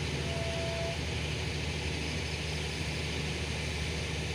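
State Railway of Thailand passenger coaches rolling past on the track: a steady, even rumble of wheels on rails.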